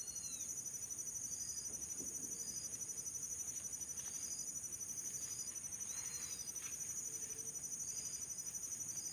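Steady, high-pitched chorus of insects such as crickets, several layered trills pulsing rapidly. Short chirps repeat about once a second, and two brief arching calls come at the start and about six seconds in.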